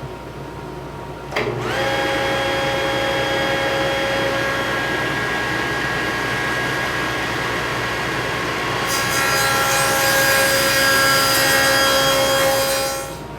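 Table saw fitted with a dado stack starting up about a second in and running steadily, then cutting a wide groove through the clamped cedar legs for the last few seconds, louder and hissier as the cutters chew the wood, before it is switched off near the end.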